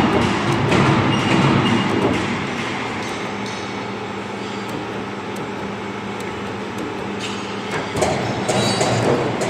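CNC hydraulic profile bending machine running: a steady hum from its hydraulic pump and motor under a busy mechanical rumble. It is louder for the first two seconds and again from about eight seconds in.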